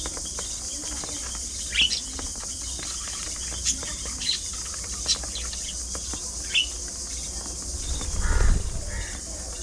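Budgerigars giving short, scattered chirps over a steady high hiss, with a louder low rumble lasting about a second near the end.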